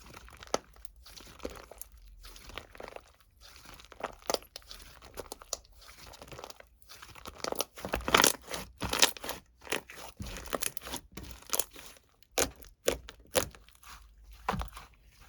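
Irregular crunching and crinkling: a run of sharp crackles that grows busier and louder about halfway through, then thins to a few separate cracks.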